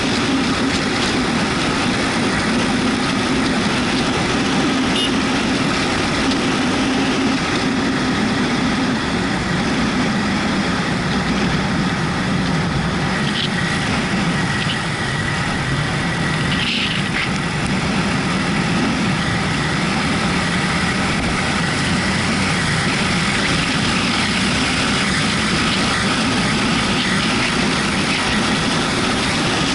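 Yamaha MT-125's single-cylinder engine running under way, its note drifting slowly up and down, over a steady rush of wind and wet-road noise.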